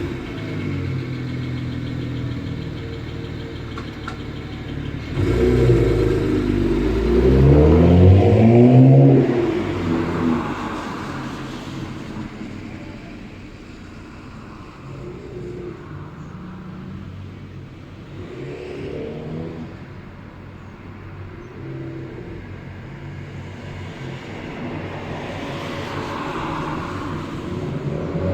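Exhaust of a BMW 335i's N54 twin-turbo inline-six, running with an MHD Stage 1 tune through a performance exhaust. About five seconds in the engine is revved, rising in pitch for about four seconds before dropping back, then runs more quietly and climbs a little again near the end.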